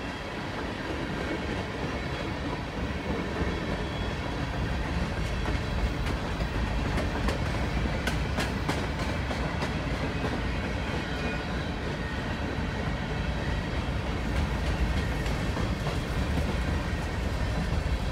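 Freight cars of a long mixed manifest train rolling past: tank cars, then covered hoppers. The wheels and rails make a steady rumble and clickety-clack, with a cluster of sharp clicks about seven to nine seconds in.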